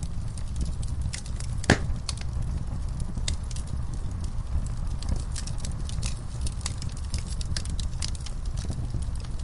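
Wood fire in a fireplace crackling: a steady low rumble of the flames with scattered small pops and snaps, and one louder pop a little under two seconds in.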